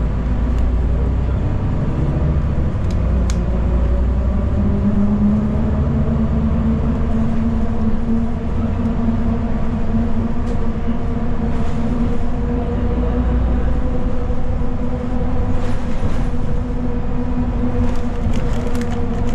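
Inside a moving city transit bus: steady engine and road rumble with a constant hum, and a few sharp rattles and clicks, more of them near the end.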